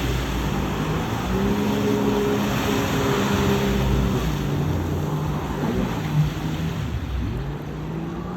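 A motor engine running, its pitch holding and then dipping and rising again several times as the throttle changes, over a steady rushing noise.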